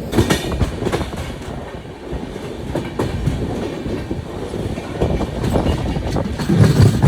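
Passenger express train running on the rails, its coach wheels clattering with irregular knocks over rail joints and points, with a louder heavy clunk near the end.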